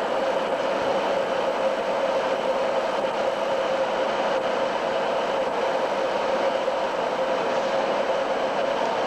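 A train running steadily at the station, a constant even hum and rumble that neither rises nor falls.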